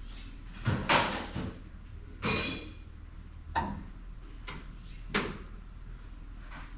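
Metal tools and parts clanking and knocking as they are handled for an oil change: about half a dozen separate knocks. The loudest, about two seconds in, rings briefly like struck metal.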